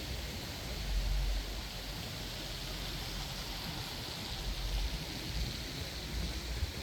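Steady hiss of heavy rain, with a low rumble underneath that swells briefly about a second in.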